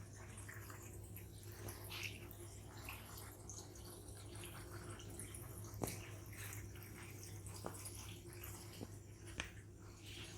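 Reef aquarium water trickling and dripping, with scattered faint drips and a steady low pump hum underneath.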